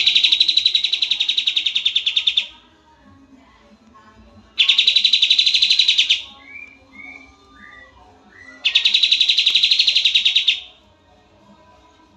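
Kapas tembak songbird singing: three loud bursts of rapid, evenly pulsed high trilling, each about two seconds long and separated by pauses, with a few short, softer whistled notes between the second and third bursts.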